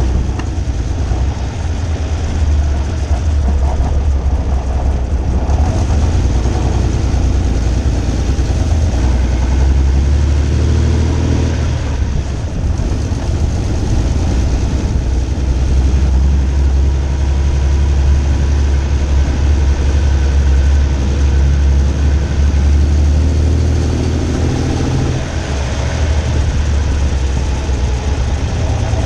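Homemade twin-engine car's exposed engine, with open intake trumpets and exhaust headers, running at low revs as the car drives slowly; a loud, deep, steady note that rises and falls a little with the throttle.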